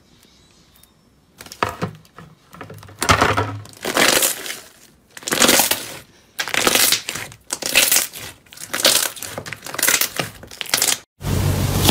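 Crunchy ASMR material being crushed in a series of crisp crunching strokes, roughly one a second, starting after a short quiet moment.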